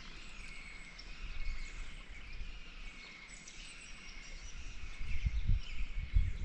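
Birds chirping faintly over a steady outdoor background, with low rumbles on the microphone growing stronger near the end.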